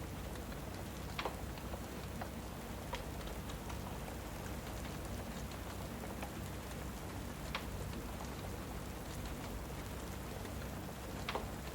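Steady rain ambience with a handful of sharp, scattered pops from a crackling fireplace.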